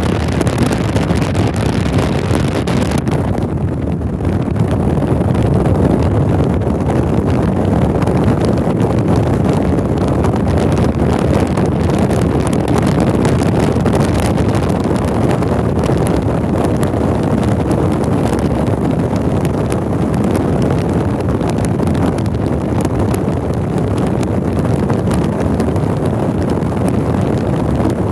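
Steady, loud rumble and rushing of a train in motion, heard from inside a train car with no distinct horn, bell or clacks standing out.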